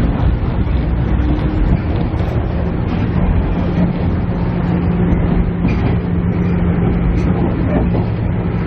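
Cabin interior of a KiHa E130 diesel railcar under way: a steady diesel engine drone with a constant low tone over the rumble of the wheels on the track.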